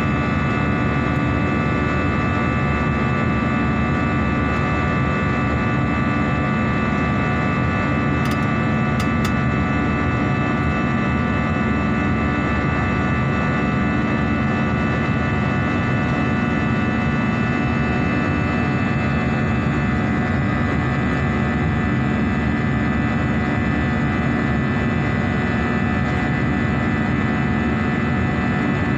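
Airliner cabin noise in flight: a steady drone of engines and rushing air, several constant high tones over a low rumble, unchanging throughout.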